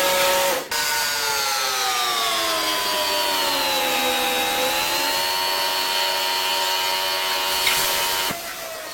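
Automatic car wash machinery running with a steady, multi-toned motor whine whose pitch sags slightly and recovers, breaking off abruptly near the end.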